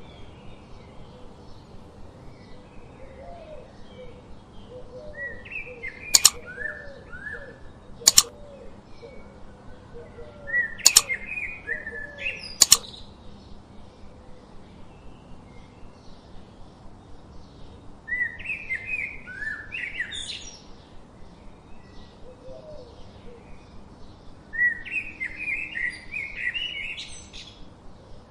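Songbird singing in bursts of quick chirping phrases, with four sharp clicks in the first half. Under it, a short low note repeats steadily.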